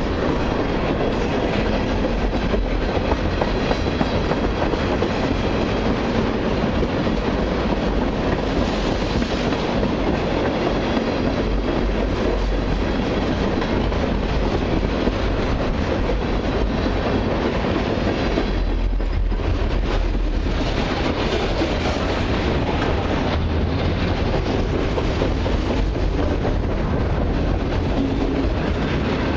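Freight cars of a long CN autorack and mixed freight train rolling past: a steady rumble of steel wheels on the rails. The noise dips briefly about two-thirds of the way through.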